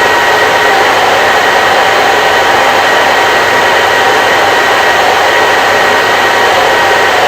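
Hair dryer running steadily: an unchanging loud rush of air with a faint steady whine from its motor.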